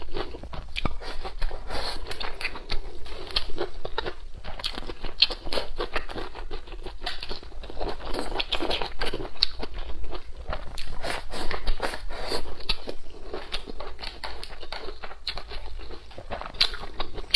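Close-miked chewing and crunching of food: irregular, steady eating noises of a person biting and chewing raw green chili peppers and braised pork, with wet mouth sounds.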